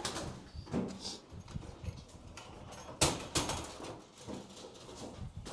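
Pigeons' wings flapping and scuffling, in quick runs of short strokes, with a sharp knock about three seconds in.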